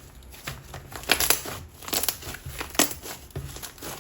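Fluffy cold-foam slime being squished and stretched in the hands, giving a run of sharp crackles and pops from trapped air, the loudest from about a second in until near three seconds.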